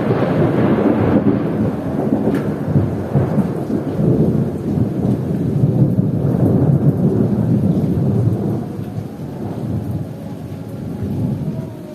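Thunder rumbling over heavy rain, the low rumble slowly dying away in the last few seconds while the rain keeps on.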